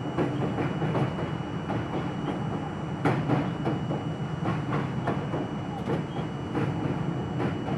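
R42 subway car running along the track, heard from inside the car: a steady rumble broken by irregular wheel clicks and knocks over rail joints and special trackwork.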